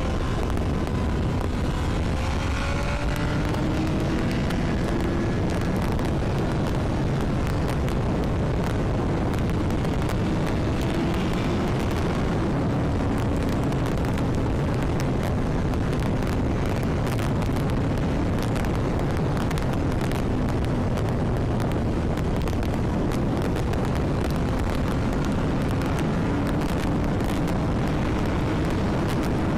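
Honda CBR1000RR inline-four engine running under way, its faint note drifting gently up and down beneath heavy wind buffeting on the microphone.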